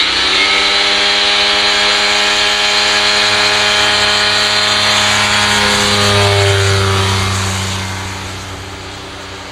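Light airplane's propeller engine running at full takeoff power as it passes close by: a loud, steady drone whose pitch drops about six seconds in, then fades as the plane moves away.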